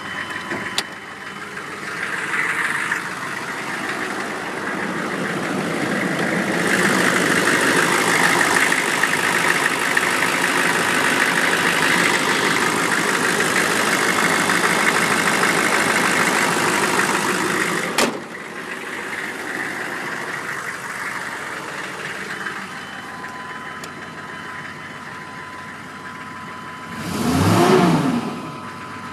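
1995 Chevy 2500's 6.5-litre turbo diesel V8 idling, still warming up after a cold start, heard with the hood open; it grows louder for a stretch in the middle. A sharp click about eighteen seconds in, and a brief rise and fall in pitch near the end.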